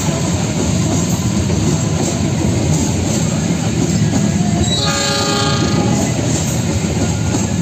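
Passenger train coaches rolling past close by, a steady heavy rumble of wheels on the rails. About five seconds in, a train horn sounds for roughly a second and a half over the rumble.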